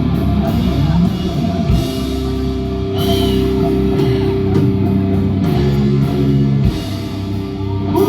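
Live rock band playing loud, heard from the crowd: electric guitar and drum kit, with long held guitar chords that break off briefly a little before the end.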